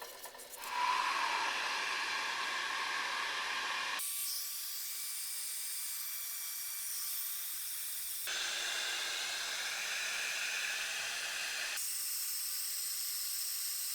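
Compressed air blowing hard from a blow gun, drying freshly washed jack parts: a steady, high-pitched hiss. It is heard over several cut-together shots, with abrupt changes in tone at each cut.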